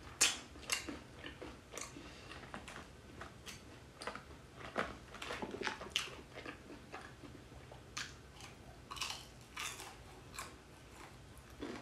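A person chewing and biting fried chicken coated in corn-cheese sauce, heard as irregular mouth clicks and soft chewing noises.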